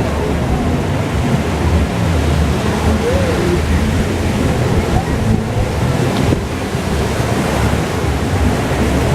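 Wind buffeting the microphone over a steady rush of water, with a heavy, uneven low rumble.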